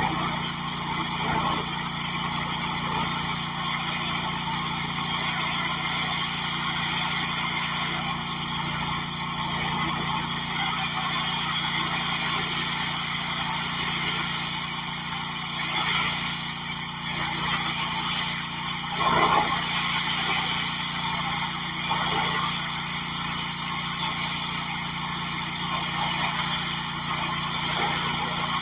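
Small gasoline engine of lawn equipment running steadily at constant speed, with a brief louder surge about two-thirds of the way through.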